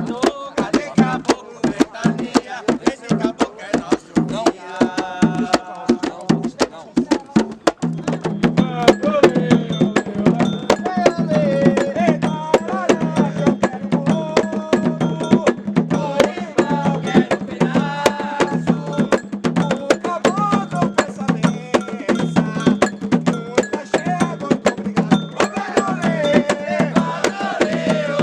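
Afro-Brazilian religious music: hand drums and a struck bell beat a fast, steady rhythm under voices singing a chant.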